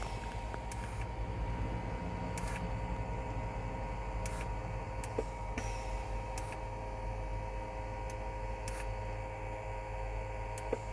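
Steady electrical hum with a constant faint whine over a low rumble, and a few faint clicks.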